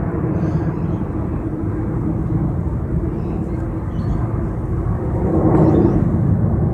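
Jet airliner climbing out after takeoff, its engine noise loud and steady with a humming tone underneath, swelling a little about five to six seconds in.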